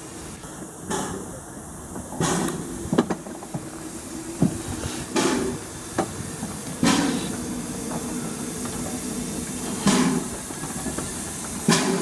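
Ivatt Class 2MT 2-6-2T steam tank locomotive working slowly: a loud exhaust chuff every one to three seconds over a steady hiss of steam, with a few sharp clicks in between.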